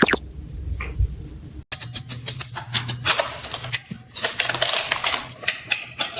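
Rapid, irregular clicking and tapping that starts after a sudden cut about two seconds in.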